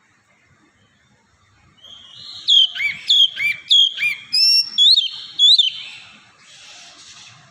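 Oriental magpie-robin singing: after a quiet start, a run of about seven loud, clear whistled notes with sharp pitch slides, then a softer raspy note near the end.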